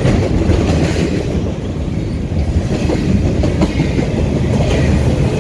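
Intermodal freight train of double-stack container well cars rolling past close by: a steady, loud rumble of steel wheels on the rails with some light clatter.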